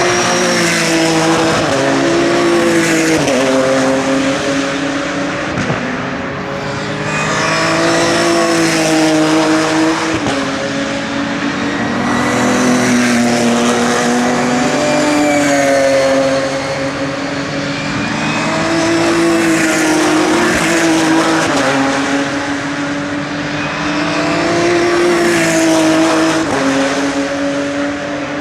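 Racing cars at full throttle passing one after another, engines climbing in pitch through the gears with sharp drops at each upshift, overlapping so the sound never stops.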